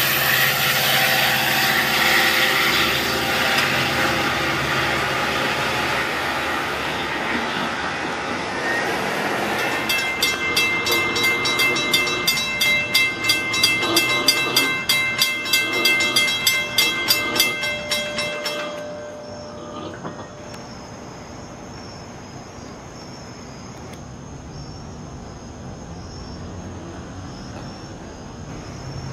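A Long Island Rail Road diesel train passing, loud at first and then fading. It is followed by a fast, regular ringing signal that stops abruptly about nineteen seconds in, then crickets chirping steadily.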